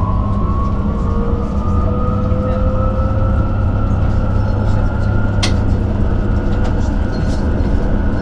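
Electric bus traction motor whining, rising slowly in pitch as the bus picks up speed, over a steady low hum in the cabin. A single sharp click about five and a half seconds in.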